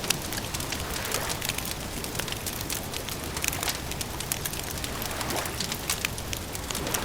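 Wood campfire crackling, with frequent irregular sharp pops and snaps over a steady low rush.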